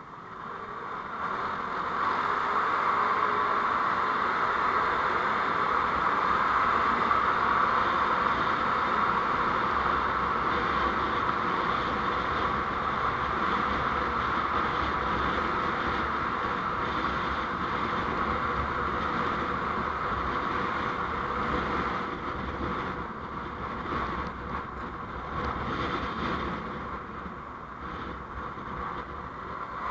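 Steady rushing road and wind noise from a vehicle on the move. It swells over the first two seconds, then holds fairly even, easing a little after about two-thirds of the way through.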